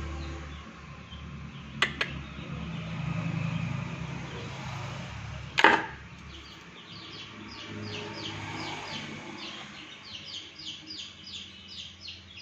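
A bird chirping in a quick run of short falling chirps, about three or four a second, through the second half. Earlier come two sharp clicks and a single louder knock, over a low steady hum.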